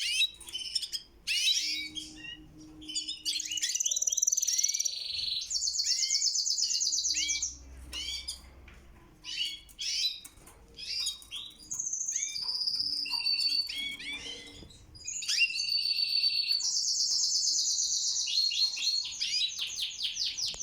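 Domestic canaries singing: high-pitched chirps broken by long, rapid rolling trills, with sustained trills around four to nine seconds in and again from about sixteen seconds in.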